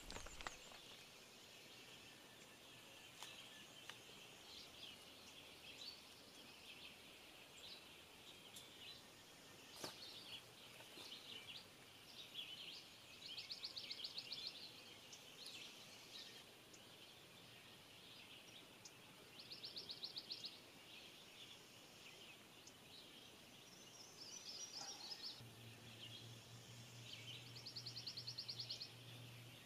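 Faint songbirds singing: scattered chirps and several short, rapid trills that recur every few seconds. A low steady hum joins in near the end.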